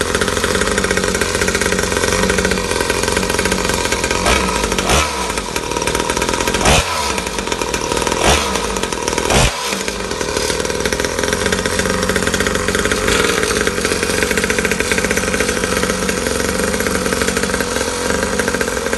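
49cc two-stroke pocket bike engine running on its first start, a steady buzzing idle with several short throttle blips between about four and ten seconds in.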